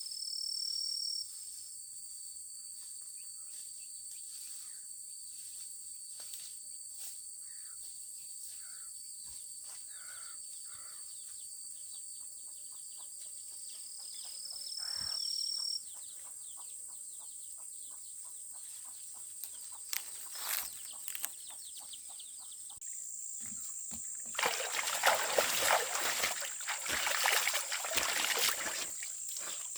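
Outdoor insect chorus, a steady high drone with two short rising buzzes, and a few scattered bird calls. About three-quarters of the way in, water starts splashing and trickling loudly.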